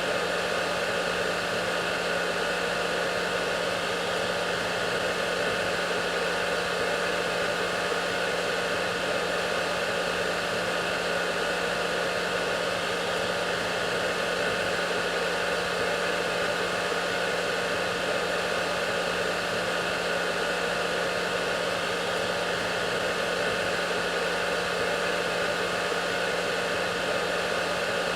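Hair dryer running continuously: a steady blowing hiss with a constant whine and hum from its motor, unchanging throughout.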